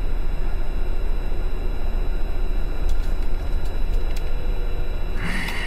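A steady low rumble, the kind a running road vehicle makes, with a short higher-pitched sound near the end.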